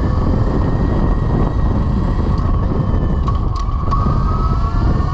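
Velimotors VMX12-F electric motorcycle under way: a steady rush of wind noise with the electric motor's thin whine above it, rising slightly in pitch near the end. A few short clicks come about three and a half seconds in.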